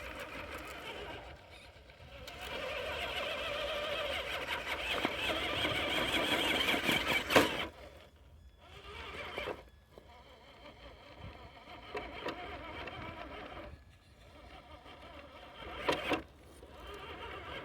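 Traxxas TRX-4 RC crawler's electric motor and geartrain whining under load, building over several seconds as it crawls up a steep hill, ending in a sharp knock about seven seconds in; shorter bursts of motor follow, with another knock near the end. The truck is struggling on the climb with too little weight on the front.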